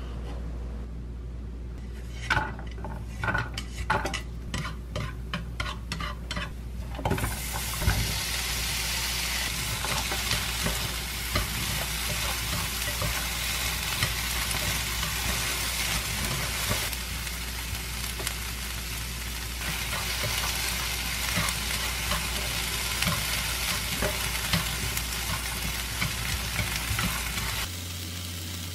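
Kitchen knife cutting diced chicken breast on a wooden cutting board, a run of sharp chops about two a second. From about seven seconds in, sliced onions sizzle steadily in a frying pan as they are stirred with chopsticks.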